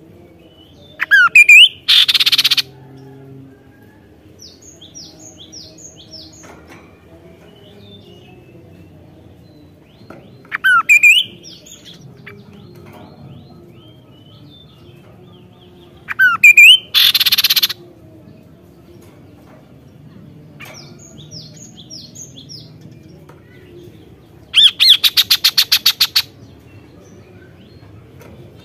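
Kaso-kaso bird singing in four loud phrases several seconds apart, each a few quick sweeping whistles running into a harsh rasping burst; the last phrase, near the end, is a fast rattle. Faint high chirps come in between the phrases.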